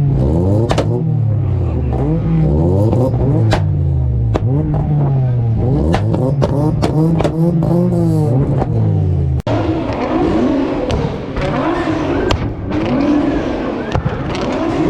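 A tuned car engine revved again and again, its pitch climbing and dropping about once a second, with sharp exhaust pops and bangs between the revs. About two-thirds of the way through the sound changes abruptly to another engine running amid busier background noise.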